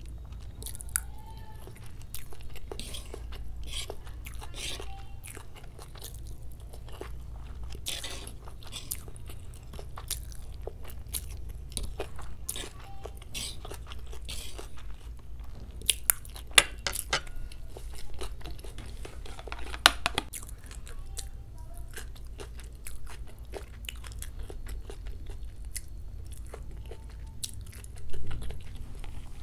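Close-miked chewing and biting of chowmein noodles, with many short crunches and wet mouth clicks. A louder thump comes near the end.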